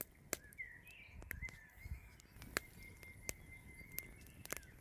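Wood campfire crackling with irregular sharp pops, over a bird chirping in the background.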